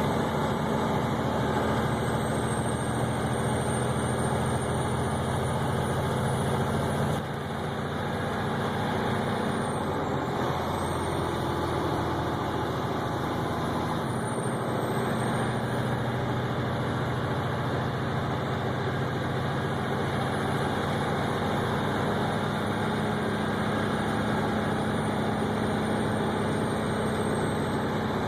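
Steady engine drone and road noise heard from inside a vehicle's cab while driving on an icy road, with a brief dip in level about seven seconds in. A faint high whine rises and falls in pitch above it.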